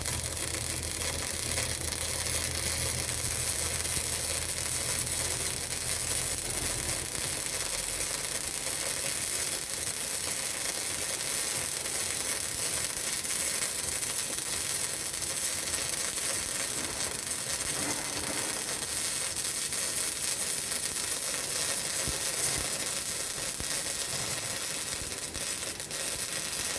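MIG welding arc on steel pipe: a steady crackling sizzle that cuts off abruptly at the end as the bead is stopped. A low hum runs underneath for the first several seconds.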